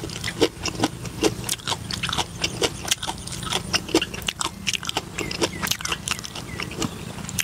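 Close-up chewing of crisp green papaya salad: a quick, irregular run of crunchy clicks and wet mouth sounds, with a low steady hum underneath.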